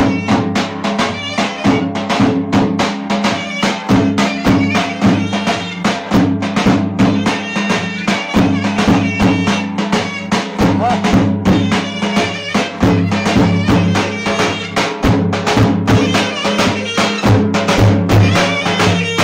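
Turkish folk dance music: a reedy wind instrument plays a sustained melody over fast, steady drumbeats.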